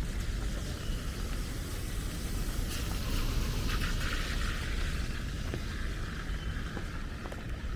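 Heavy rain on a city street over a deep steady rumble, with a hiss that swells in the middle, like a car passing on the wet road.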